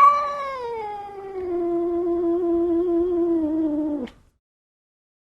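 Cat giving one long, drawn-out meow that starts high, slides down to a lower note and holds it, then cuts off about four seconds in.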